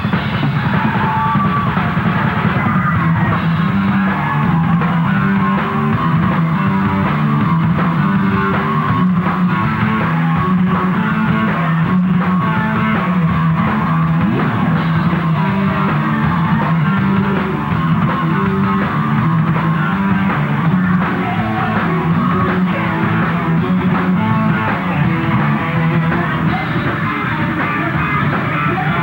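Live rock band playing at full volume, with electric guitar, bass and drum kit, on a rough, muffled recording with no high end.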